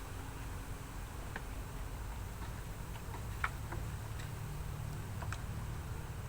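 A handful of light, irregular clicks and taps, the sharpest about three and a half seconds in, over a steady low hum.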